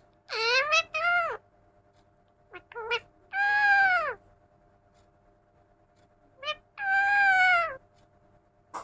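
Parrot imitating a cat's meow: a series of drawn-out, meow-like calls, each rising slightly and then falling in pitch, with short pauses between. The longest calls come about three and a half and seven seconds in.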